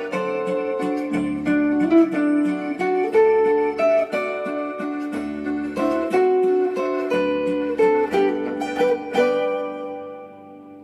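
Concert zither played solo: a plucked melody over regular low bass notes and chords, ending about nine seconds in on a final chord that is left to ring and fade.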